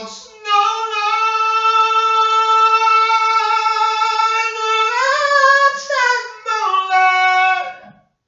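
A single voice singing unaccompanied, holding one long high note for about four seconds, then sliding up and stepping back down before breaking off near the end.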